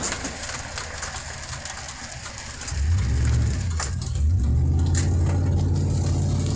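Car engine running, heard from inside the cabin as a low steady hum. It grows louder about three seconds in and again about four seconds in. Short scattered clicks sound over it.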